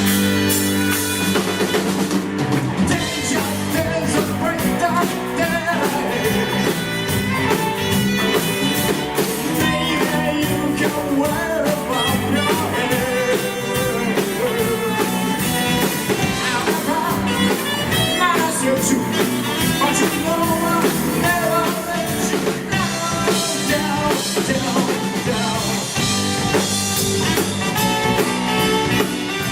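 Live rock band playing with drum kit and guitar while a singer sings.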